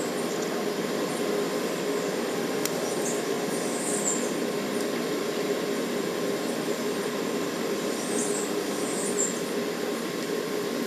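Steady mechanical drone with a constant low hum, and faint short high chirps a few times.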